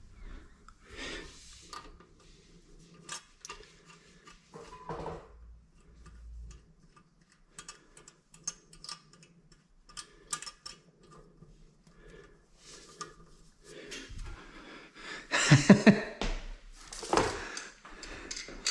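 Small hard parts and tools being handled during a toilet installation: scattered light clicks and clinks, with a cluster of louder knocks near the end.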